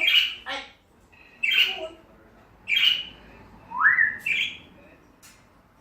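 African grey parrot giving a run of short squawks, about five in all, with a rising whistle about four seconds in.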